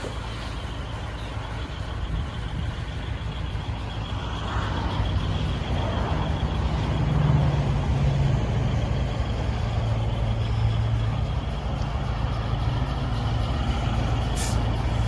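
A large truck's engine running steadily, growing louder about halfway through, with a short sharp hiss near the end.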